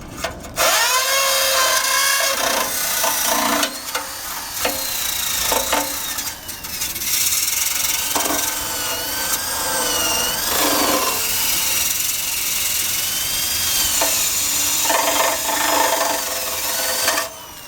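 Electric drill with a wire brush scrubbing rust and paint off a motorcycle's steel frame, the motor's whine wavering in pitch as the brush bites. It starts about half a second in and cuts off just before the end.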